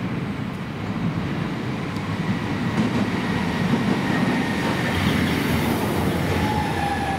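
Southeastern Class 395 Javelin electric train running into the platform: a steady rumble of wheels on rail that grows louder as the train comes alongside, over a faint high whine. Near the end a clearer whine falls in pitch.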